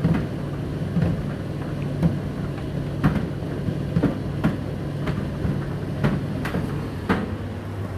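Indesit IDC8T3 condenser tumble dryer running: a steady motor hum with a knock about once a second as the load tumbles in the drum.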